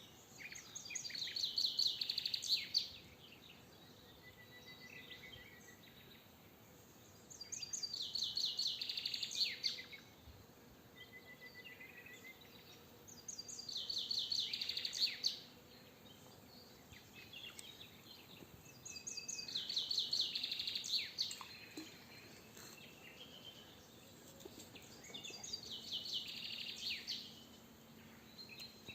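A songbird singing the same rapid trilling phrase five times, about every six seconds, each phrase lasting two to three seconds. Between phrases there is a fainter thin whistle from another bird.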